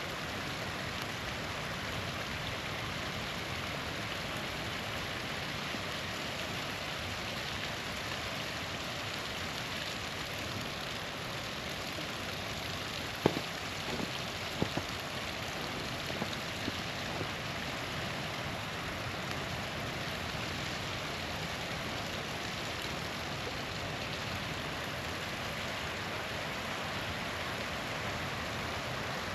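Small waterfall splashing in a steady rush of water, with a few sharp pops from a crackling campfire a little before the middle.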